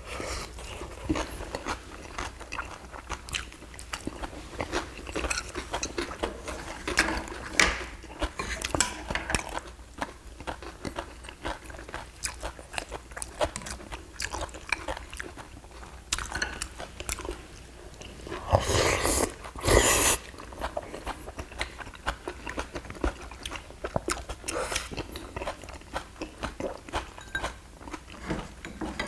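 Two people eating at a table: close-up chewing and crunching of food, with many small sharp clicks throughout. About two-thirds of the way through come two louder, noisier bursts.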